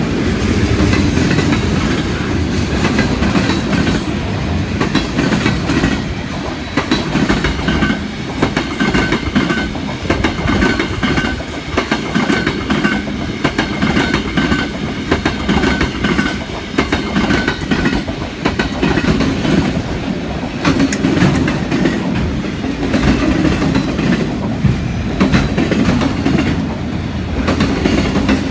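Freight train cars rolling steadily past, autoracks and aluminum gondolas, their wheels clacking over the rail joints. A faint high ringing comes and goes in the middle.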